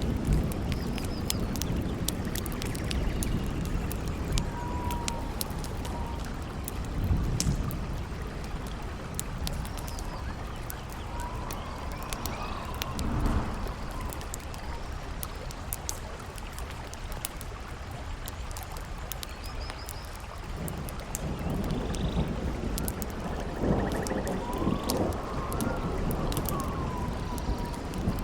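Campfire crackling with many sharp pops over a low rumble of wind that swells several times, and a thin howling whistle of wind that rises and falls in pitch, strongest near the end.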